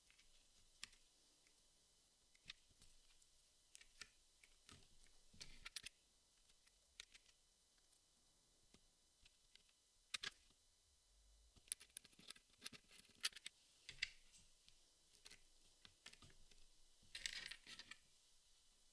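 Jigsaw puzzle pieces being handled: faint, scattered clicks and taps as pieces are picked up and set down, with a brief flurry of shuffling near the end.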